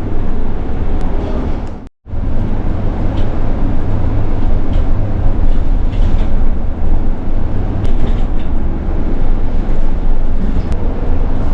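Steady rumble and noise of a moving public-transport vehicle, heard from inside, with a short break about two seconds in.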